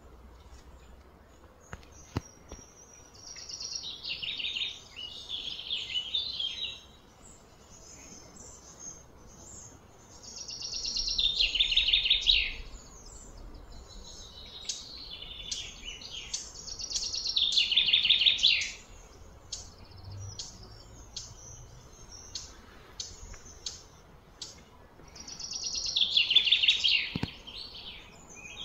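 A songbird singing: four loud trilled phrases, each about two seconds long and falling in pitch, coming roughly every seven seconds, with short chirps in between.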